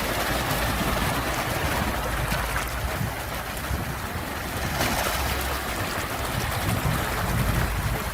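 Sea waves washing in, a continuous rushing with a low rumble underneath that swells and eases a little.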